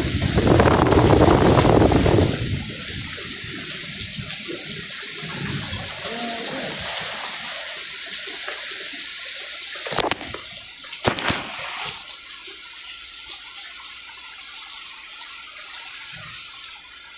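Storm wind buffeting the microphone for about two seconds, then a steady hiss of wind-driven rain. Two sharp knocks come a little past the middle.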